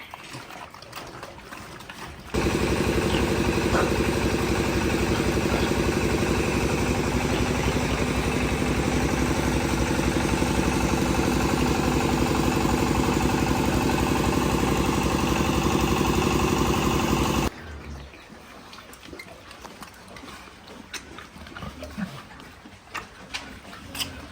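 A motor engine running steadily with a fast, even pulse, starting abruptly about two seconds in and cutting off suddenly about seventeen seconds in.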